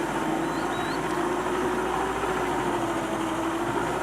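Tour boat's motor running steadily, with a low hum and rumble.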